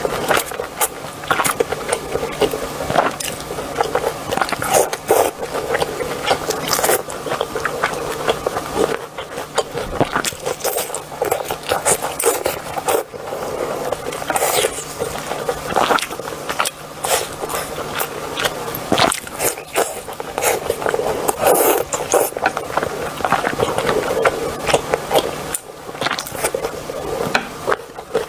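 Close-miked eating: irregular chewing, biting and crackly mouth sounds with many small clicks, over a faint steady low hum that stops near the end.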